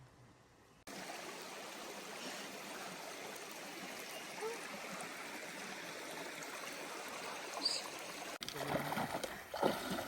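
Water of a stream running steadily, coming in abruptly about a second in and cutting off sharply near the end.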